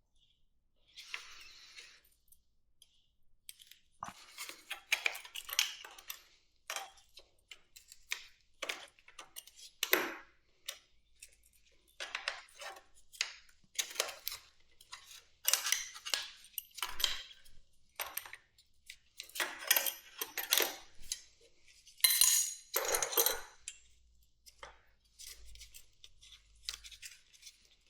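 Hand tools and metal motorcycle parts clinking and clattering irregularly during teardown work on the carburetors, many separate sharp knocks and rattles with short pauses between them.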